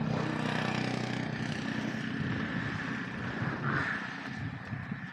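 An engine running steadily, with a low even hum under a hiss.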